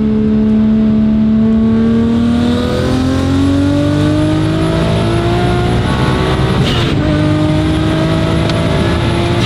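Toyota Supra MK4's turbocharged inline-six pulling under load, its pitch climbing slowly with a faint high turbo whistle. About seven seconds in there is a short click and the pitch drops at a gear change, then both start climbing again.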